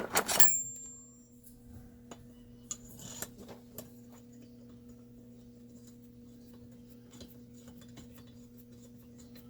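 Small metal tools and parts handled on a workbench. A sharp metallic clink with a high ringing tone comes right at the start, another ringing clink follows near three seconds in, and faint scattered ticks come after.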